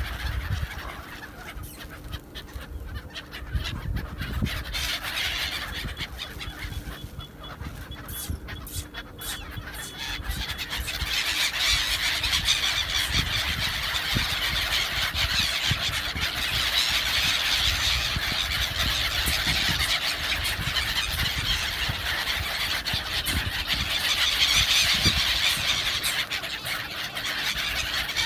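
A flock of birds calling and chattering over one another in a dense, continuous din that grows thicker and louder from about ten seconds in.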